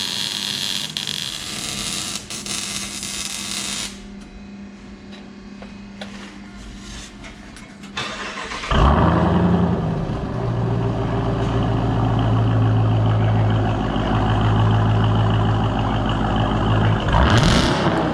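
A car engine cranks and starts about nine seconds in, then runs at a steady idle, with a short rev near the end. Before it, a steady hiss with a low hum gives way to a quieter stretch with scattered clicks.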